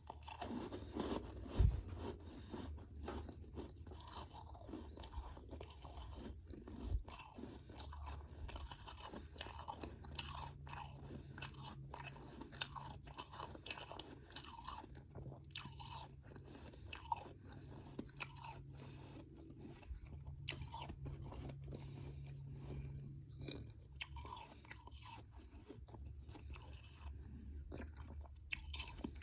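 Close-up chewing and biting of frozen powdery ice and small ice chunks: dense, irregular crunches with no pauses, and a sharp low thump about two seconds in.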